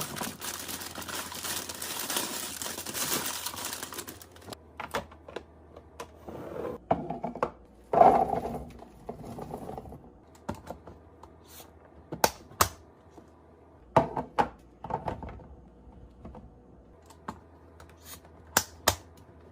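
Food packages and plastic containers being handled during fridge restocking. A steady rustling noise for the first few seconds, then scattered sharp clicks and taps as items and lids are set down and fitted.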